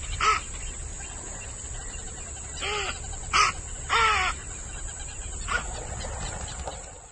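A bird calling: about six short calls, each rising and then falling in pitch, with a steady background noise behind them.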